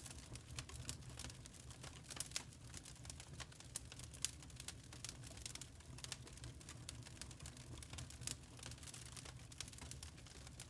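Burning charcoal crackling: a steady stream of small, sharp pops and ticks at irregular intervals over a low, steady rumble.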